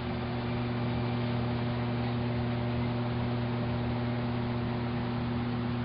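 A steady electrical hum, a low tone with a couple of higher overtones, over an even background hiss.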